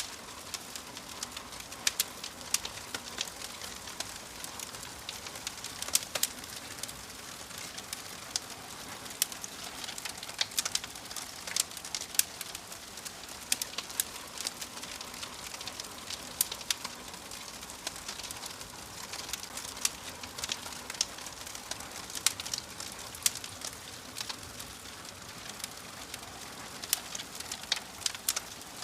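Wood fire crackling: a steady soft hiss broken by frequent sharp, irregular pops and snaps.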